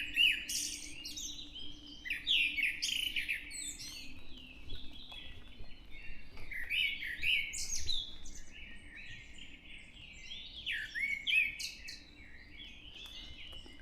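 Dawn chorus of several songbirds singing and calling over one another in a constant stream of overlapping chirps and whistles, with a faint steady low hum beneath.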